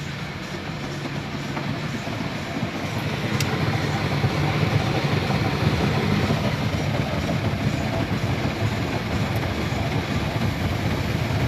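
Automatic car wash machinery working over the car, heard from inside the cabin: a dense, low rush of noise with hiss on top. It builds over the first few seconds, then holds steady.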